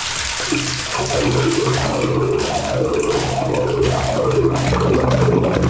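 Horizontal directional drill bit spinning fast as it is pushed slowly through the manhole wall. From about half a second in there is a steady hum with a grinding that wavers up and down above it, over a hissing rush.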